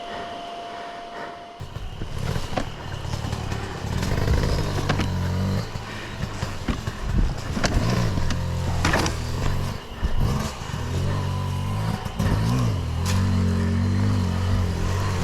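Off-road motorcycle engine revving up and down in short bursts, with clattering and knocks as the bike works over rough ground. The engine sound comes in about a second and a half in, after a quieter start.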